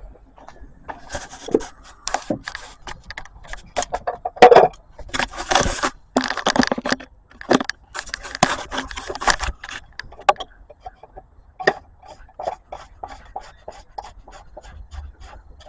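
Plastic oil filter cap and cartridge scraping and clicking as they are handled and fitted back into the housing by hand. Near the end comes a run of quick, even clicks, about three or four a second.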